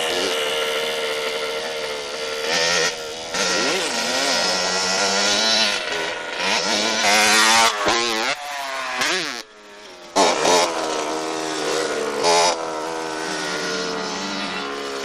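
Motorcycle engines running and revving, the pitch repeatedly rising and falling. The sound briefly dips about nine and a half seconds in, then comes back loud.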